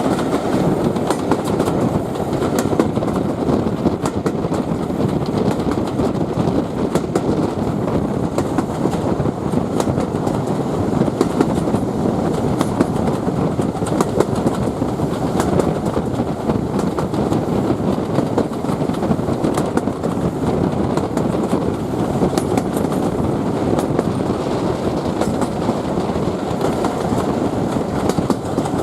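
Steady rumble of a railway coach's wheels running on the rails, with fine clicks and rattles, as a steam-hauled train runs downhill.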